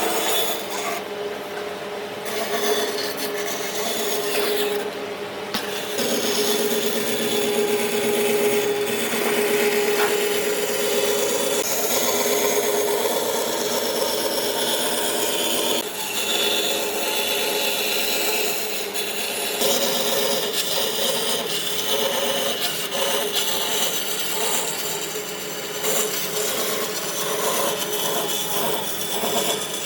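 A tool working wood, a continuous scraping, rasping noise of cutting or abrading wood. A steady hum runs under it for roughly the first ten seconds.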